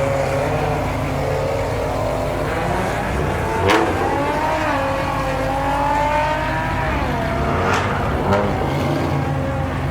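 Car engine revving, its pitch rising and falling, with a sharp crack about four seconds in and two more near the end.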